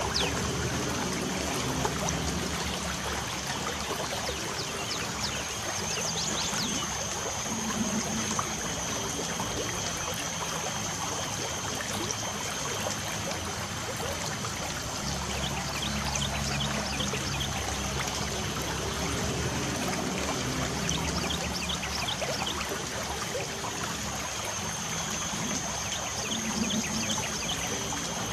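Light rain falling with a steady hiss, while birds chirp in short scattered calls throughout. A thin, steady high tone runs underneath.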